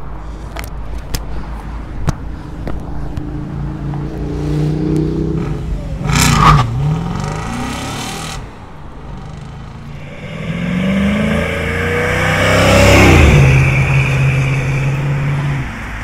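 Audi S4's 4.2-litre V8 accelerating up the street and passing close by, loudest about thirteen seconds in as its pitch drops, then running steadily before cutting off near the end. About six seconds in, a vehicle passes quickly with a brief sharp rise and fall.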